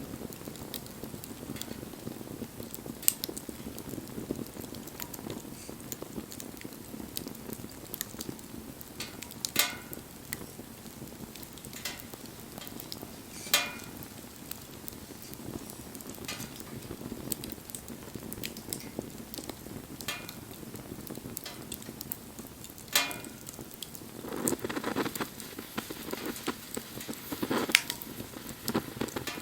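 Wood bonfire burning: a steady low rush of flame with sharp pops every few seconds, and busier crackling near the end.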